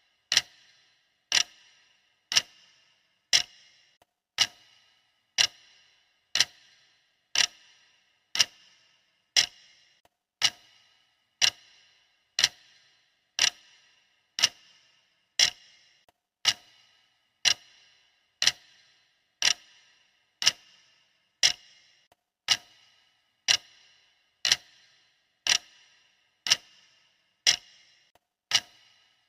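Clock ticking steadily, one sharp tick each second, each with a brief ringing tail.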